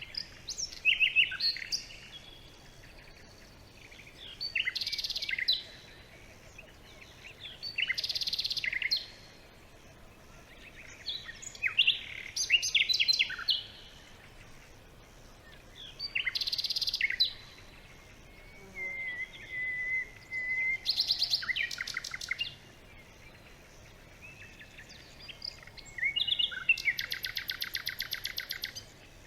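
Songbirds singing in woodland: short, separate song phrases every few seconds, with a long, fast trill near the end.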